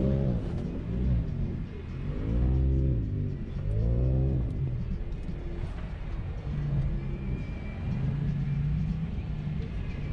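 Jeep engine revving up and falling back in a few short throttle blips, then running steadily at low revs.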